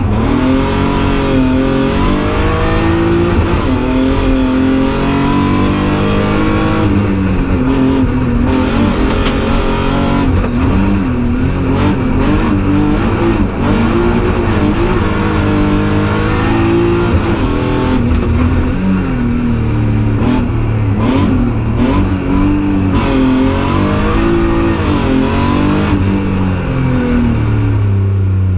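BMW 325 rally car's straight-six engine heard from inside the cabin, revving hard at full throttle. Its pitch climbs and falls over and over as the car accelerates and slows.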